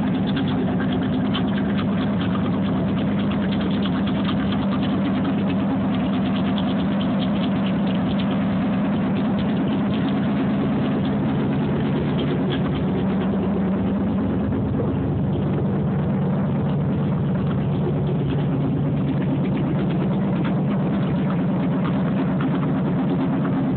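1987 Camaro IROC-Z's 355 small-block V8 with a mild cam, idling steadily through an open exhaust cutout.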